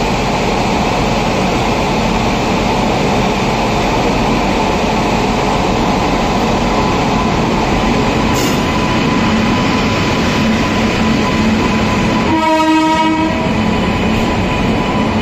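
WAP-7-hauled express train arriving along a platform: a steady rumble of the locomotive and coaches rolling past, with a faint steady whine. Near the end a train horn sounds once, about a second long.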